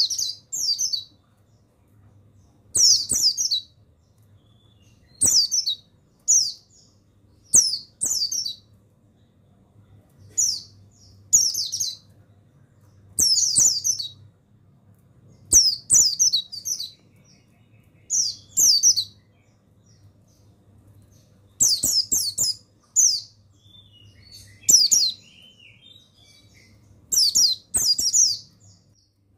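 Pleci buxtoni white-eye giving short bursts of high, rapid twittering chirps, repeated every second or two, used as a lure song to stir caged male white-eyes into singing. A faint steady low hum runs underneath.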